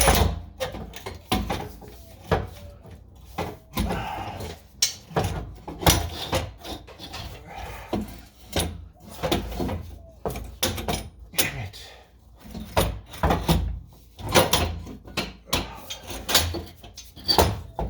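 Irregular knocks, clunks and scrapes of parts and tools being handled under a car while working an exhaust section free.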